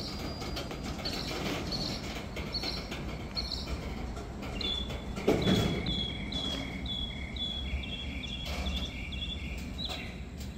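Freight train's boxcars rolling slowly past, a steady low rumble with scattered wheel clicks and a heavier knock about five seconds in. A run of short high chirps repeats about twice a second throughout.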